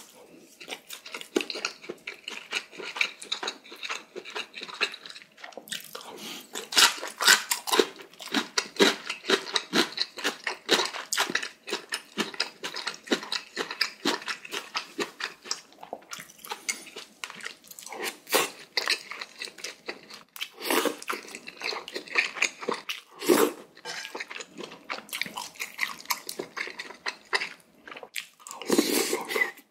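Close-miked eating: crisp cubed radish kimchi (kkakdugi) crunching between the teeth in quick runs of sharp clicks, mixed with wetter chewing, with a few louder single knocks in the second half.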